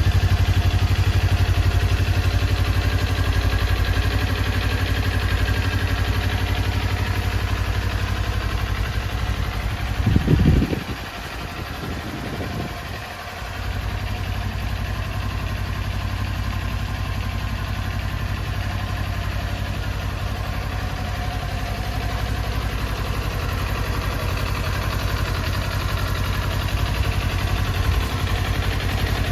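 Kawasaki Ninja 400's parallel-twin engine idling steadily. About ten seconds in there is a short, louder burst, then the low engine rumble drops out for about three seconds before the idle returns.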